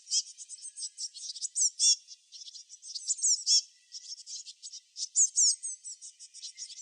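Small songbirds chirping: bursts of quick, high-pitched down-slurred notes and chirps that come again every second or two.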